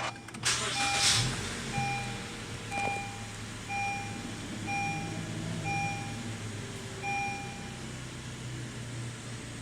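Honda HR-V four-cylinder engine running at idle, with a short burst of noise about a second in. Over it the car's warning chime beeps about once a second, seven or eight times, and stops near the end.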